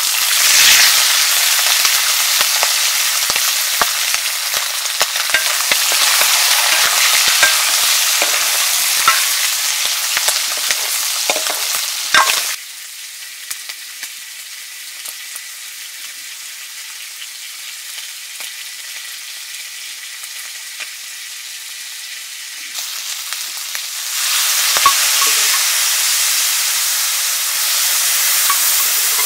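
Food sizzling in hot oil in a cooking pan for buff curry, with the small clicks and scrapes of stirring. The sizzle drops suddenly to a quieter hiss about twelve seconds in and comes back loud about twenty-four seconds in.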